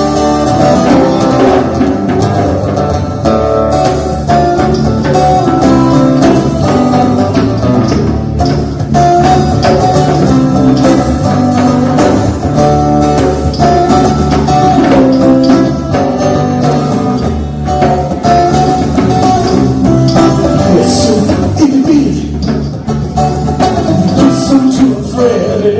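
Live jam band playing an instrumental stretch of a song, guitar to the fore over a steady beat.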